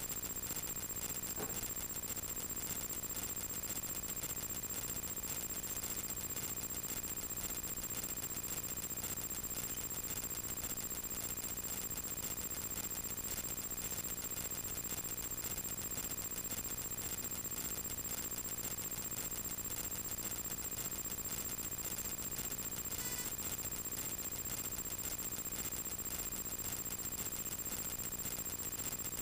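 Light aircraft's piston engine running steadily, heard inside the cockpit, with a steady high whine over it.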